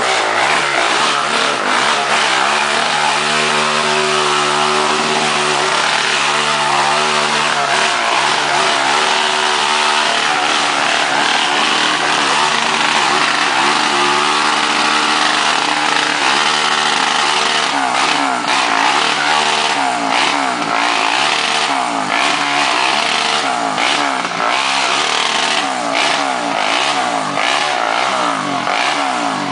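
Quad bike engine running, its pitch steady at first and then rising and falling again and again as the throttle is worked, over a constant rushing hiss.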